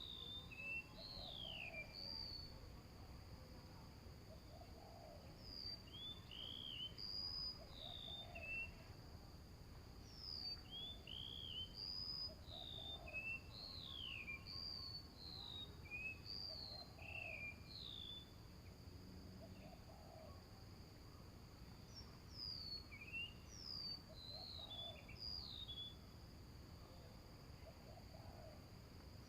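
Small birds chirping, with short notes sweeping up and down, over a steady high insect drone, and a soft low call repeating about every second and a half.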